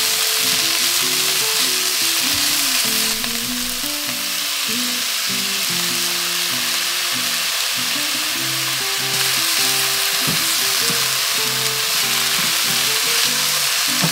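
Oyster mushrooms sizzling in hot oil in a nonstick wok as they are stir-fried and turned with a spatula, a steady hiss throughout. Soft background music plays underneath.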